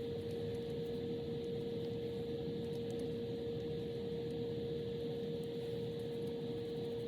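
A steady hum with one clear, unchanging tone over a low hiss, as from a running machine or electrical device.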